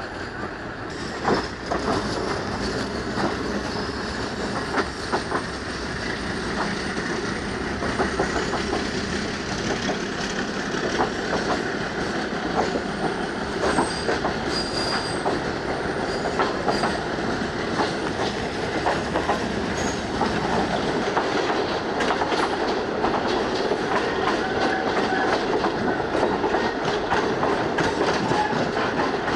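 Railway coach of a local train running on the Malayan Railway's metre-gauge line, heard from an open window: wheels clicking and clattering over the rail joints as it pulls out of a station and gathers speed, getting louder over the first several seconds. A few faint high wheel squeals come in around the middle.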